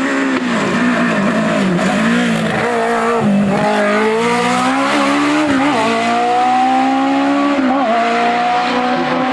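Hill-climb race car at full throttle, its engine pitch rising in long runs and dropping sharply at gear changes or lifts, about three times.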